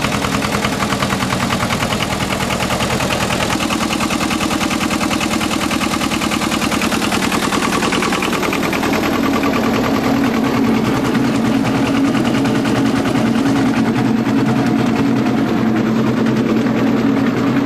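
Tractor diesel engine running steadily with a fast, even chugging, growing a little louder about halfway through.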